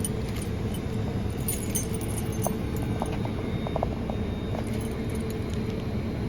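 A bunch of keys jangling and clinking in the hand as the right key is hunted for on the ring, with scattered small clicks over a steady low engine hum.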